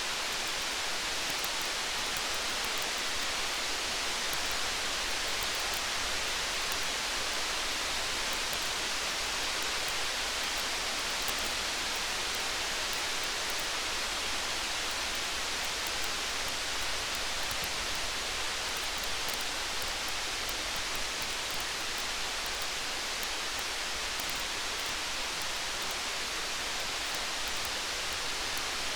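Steady rain making an even hiss, with faint scattered crackles from a campfire ticking through it now and then.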